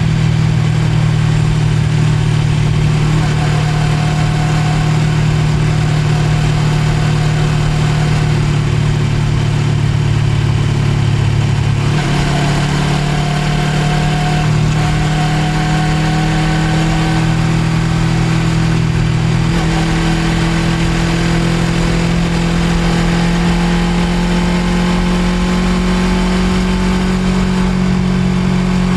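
Suzuki GSX250R's 248 cc parallel-twin engine running steadily under way. The engine note changes abruptly about twelve seconds in, then rises slowly as the bike picks up speed.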